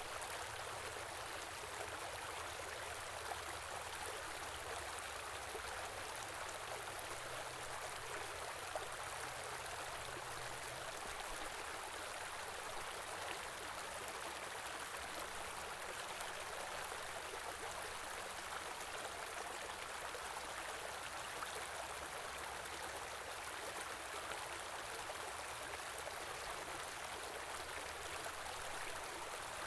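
Small river flowing steadily over stones, an even rushing with trickling water.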